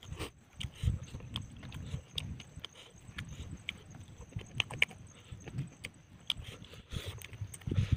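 Close-up eating sounds of a person chewing chicken by hand: irregular wet mouth clicks and smacks over soft low thumps.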